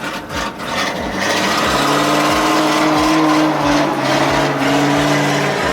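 Motorcycle engine running, swelling about a second and a half in and then holding a steady note.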